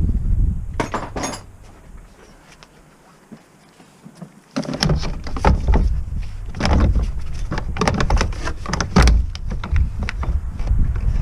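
Irregular knocks and clunks, like tools and car parts being handled, over a low rumble. The rumble drops away for a couple of seconds and comes back suddenly about halfway through, with the knocks coming thick and fast after that.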